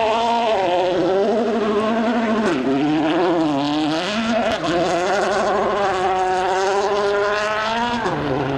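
Rally car engine at high revs under hard driving, its pitch rising and falling with throttle and gear changes: a dip about a third of the way in, a long high stretch, then a drop near the end.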